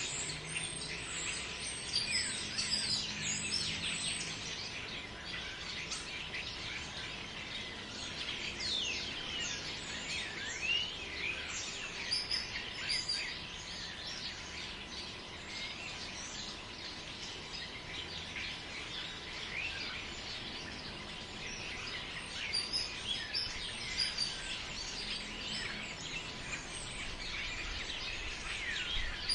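Forest ambience: many birds chirping and calling continuously, short overlapping chirps and quick pitch glides, over a steady background hiss.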